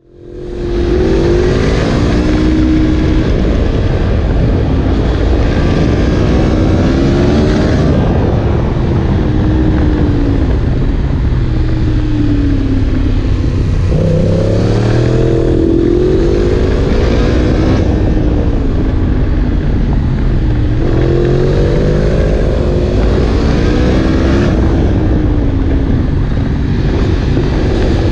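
Yamaha MT-10 SP crossplane inline-four running through an Akrapovic exhaust. The engine note rises and falls in slow swells every few seconds, with no pause, after fading in during the first second.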